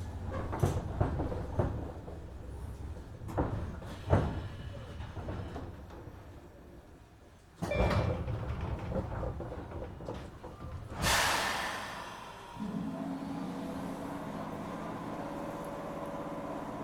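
Inside a 103-series electric train at a stop, the pneumatic sliding doors work with several clunks and knocks, a sudden thud, and a hiss of air a few seconds later. After that a steady low hum from the train's onboard equipment starts and keeps going.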